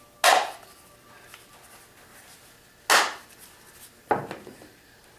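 Three sharp clacks, a few seconds apart, as parts of a Bosch orbital sander are fitted and snapped together by hand. The sander's motor is not running.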